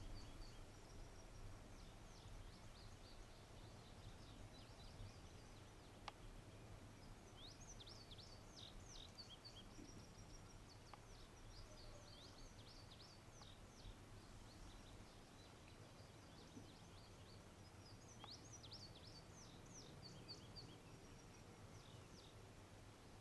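Faint birdsong: a songbird singing several short bursts of quick high chirps, over a low steady background rumble. A single faint tick about six seconds in.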